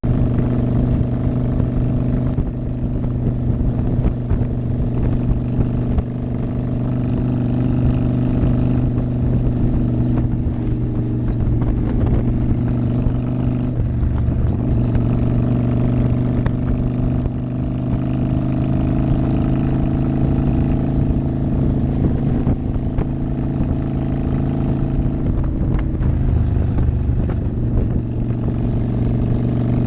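Motorcycle engine running at a steady cruising speed on the road, its pitch drifting slightly now and then, over a low rumble of wind and road noise.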